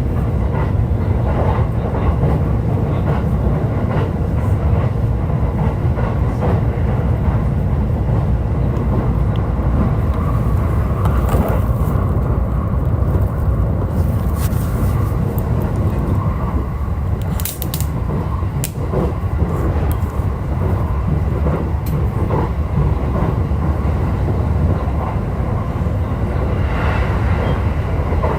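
E531 series electric multiple unit running along the line: a steady low rumble of wheels on rail, with scattered short clicks and a few brief high-pitched squeals around the middle.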